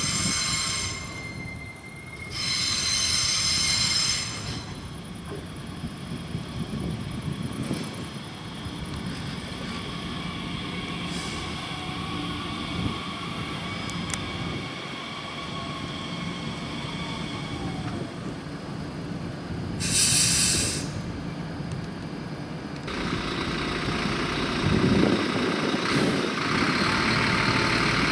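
Talent 2 (class 1442) electric S-Bahn train moving through the station, its drive giving a steady high whine that ends on a falling pitch. Three brief loud, high hissing bursts come near the start, at about three seconds and about two-thirds through, and a bus engine runs over the last few seconds.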